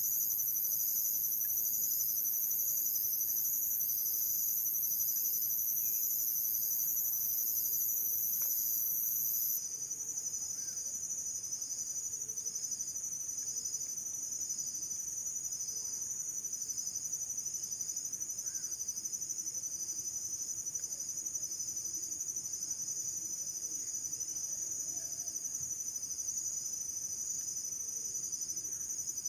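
Chorus of insects, such as crickets, trilling steadily at a high pitch. The shrillest layer of the chorus stops about ten seconds in.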